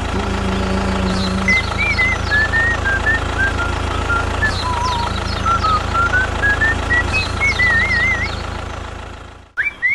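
Mini tractor's small motor running steadily with a low, pulsing hum. High chirps and a wavering whistle sound over it, and the sound cuts off abruptly near the end.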